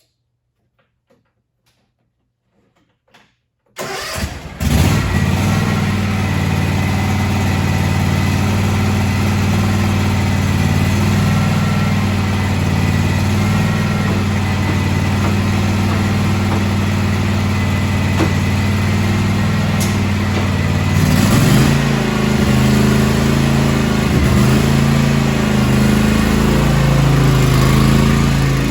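A few faint clicks, then a John Deere X384 lawn tractor's 22 hp two-cylinder Kawasaki engine cranks briefly about four seconds in, catches almost at once and runs steadily. About 21 seconds in its note steps up a little as the engine speeds up.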